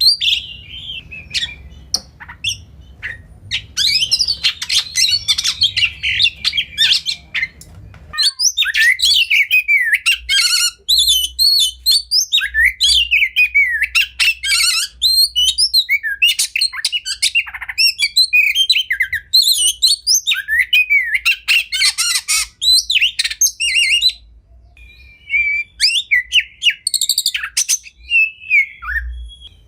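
Oriental magpie-robin (kacer) singing continuously: a rapid run of varied whistles, trills and harsh chattering bursts, with a short lull near the end. A faint low hum behind the song stops abruptly about a quarter of the way in.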